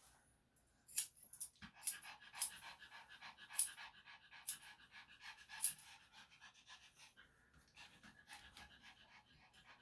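Yorkshire Terrier panting in short, irregular puffs, over a faint steady hum that starts about a second in.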